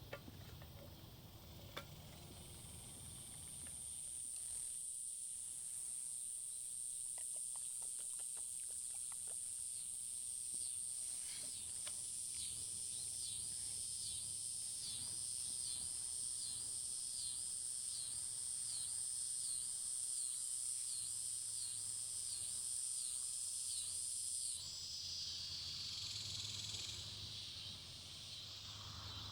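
Insects calling: a steady, high-pitched buzz that stops abruptly near the end, joined partway through by a second pulsing call that repeats a little more than once a second.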